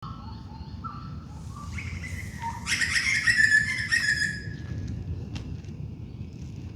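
Wild birds calling in a dawn chorus: short whistled notes at first, then a loud, dense burst of calling from about three to four and a half seconds in, with a few fainter notes after. A steady low rumble sits underneath.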